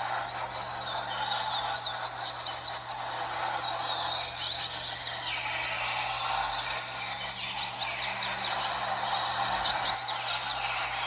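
A group of double-collared seedeaters (coleiros) singing at once, many fast high chirping song phrases overlapping without pause, over a steady background noise and a faint low hum.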